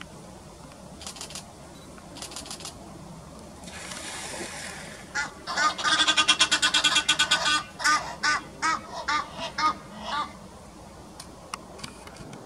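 A bird calling: a fast run of short, repeated calls starting about five seconds in, at first about eight a second, then slowing to a handful of spaced calls that stop about ten seconds in.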